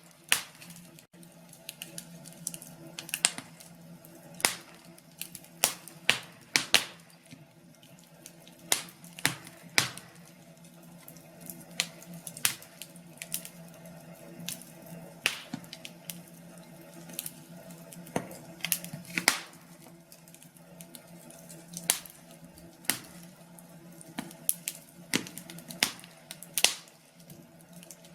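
Wood fire crackling, with irregular sharp pops over a faint steady hum.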